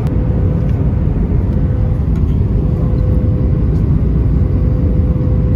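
Airbus A320 cabin noise in flight: a steady, loud roar of the jet engines and rushing air heard from inside the cabin, with a faint steady tone.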